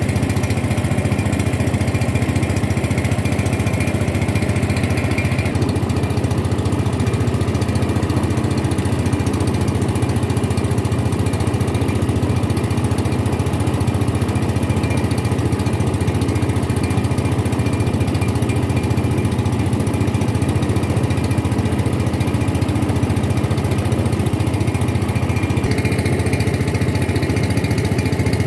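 Boat engine running steadily at constant speed.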